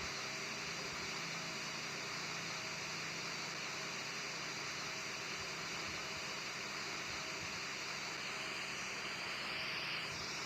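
Jet engines of a landing Airbus A340: a steady hissing roar with a faint high whine that dips in pitch near the end.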